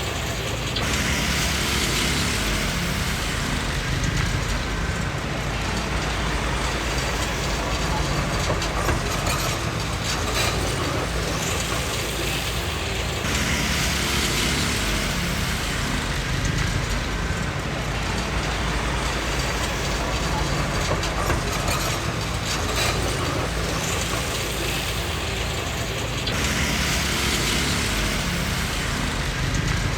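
Komatsu D20P crawler bulldozer at work: its diesel engine runs steadily while the steel tracks and undercarriage clank and rattle, the clatter growing louder and softer in stretches of several seconds.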